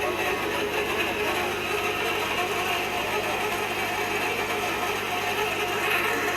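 Manually driven hot tapping machine cutting into a pipe: a steady mechanical grinding and ratcheting over a constant low hum.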